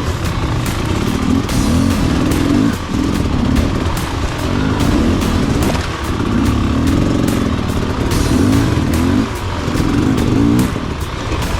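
Dirt bike engine revving up and down again and again under load, with frequent clattering knocks as the bike goes over rough ground.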